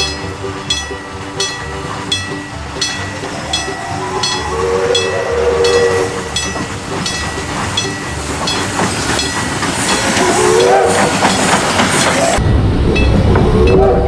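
Steam locomotive chuffing, with even exhaust beats about three every two seconds that grow louder as it approaches. Its steam whistle sounds around five seconds in and again near eleven seconds. About twelve seconds in, a heavy low rumble takes over.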